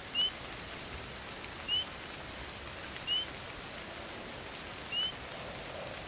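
Steady rain, with a bird calling four short rising chirps spaced about a second and a half apart.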